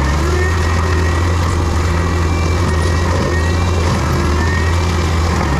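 Heavy diesel land-clearing machinery running steadily under load, a constant low drone with a faint wavering whine above it.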